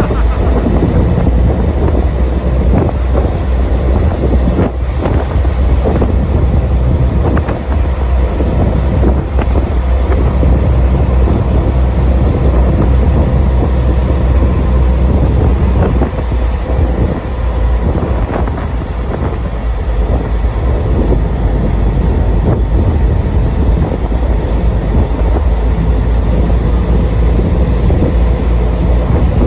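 Boat engine running steadily under way, with a heavy low rumble and wind buffeting the microphone.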